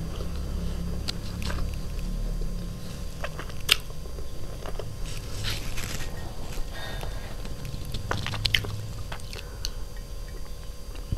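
Close-miked chewing and mouth sounds of someone eating chicken biryani, with a couple of sharp clicks and a soft rustle of fingers scooping rice from the plate; near the end a sip of water from a glass mug.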